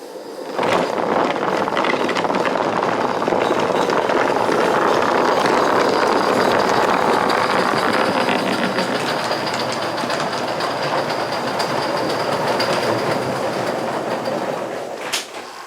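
Live-steam model locomotive 4633 shoving a train of cars, its rapid steam exhaust and the rolling wheels on the track making a steady, dense rushing chuff. It starts about half a second in and eases near the end, where there is a sharp click.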